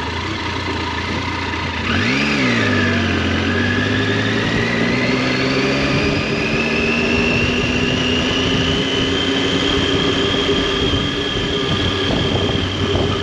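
Triumph Tiger 800's three-cylinder engine and exhaust on the move: a quick rev blip about two seconds in, after which the engine note climbs slowly as the bike accelerates in gear, then holds steady.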